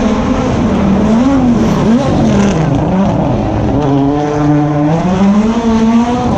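Rally car engine running hard close by, its pitch swinging up and down, dipping about halfway through, then rising steadily toward the end as it accelerates.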